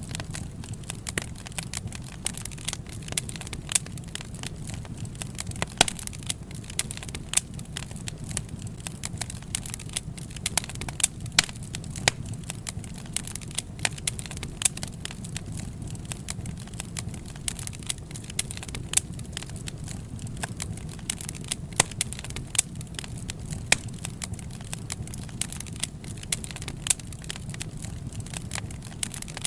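Wood fire crackling: a steady low rumble of burning with irregular sharp pops and snaps, several each second.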